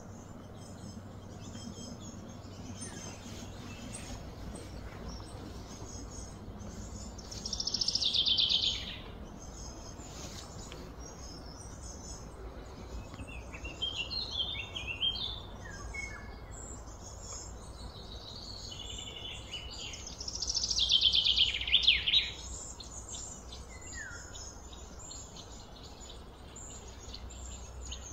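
Birds chirping and singing over steady low outdoor background noise. Two louder, fast trilling phrases slide downward in pitch, one about seven seconds in and one about twenty seconds in, with smaller chirps around fifteen seconds.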